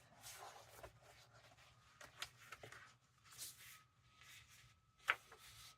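Faint rustling and handling of paper pages, with soft scattered clicks and one sharp tap about five seconds in.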